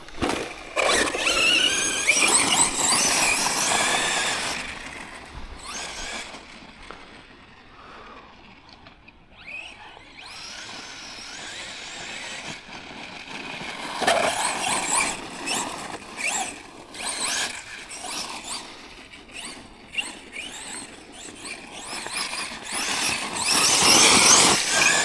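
Tekno MT410 2.0 electric 1/10 monster truck driven in throttle bursts over rocks: the motor and drivetrain whine, rising and falling in pitch, with knocks from the truck hitting rocks. The loudest runs come at the start, in the second half and near the end, with a quieter lull in between.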